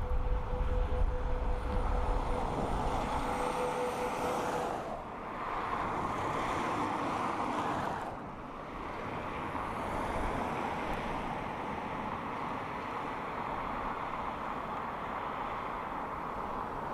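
B-52 bomber's jet engines running with a steady, rushing noise, a steady whine heard over it for the first few seconds. The sound shifts abruptly about five and eight seconds in.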